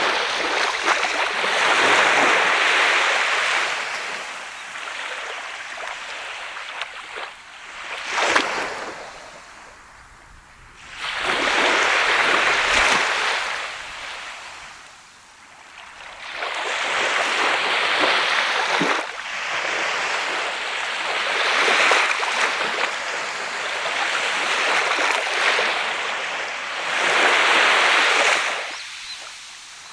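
Sea waves breaking and washing up a sandy beach, about six surges that each swell and fall away, with a sharper crash about eight seconds in.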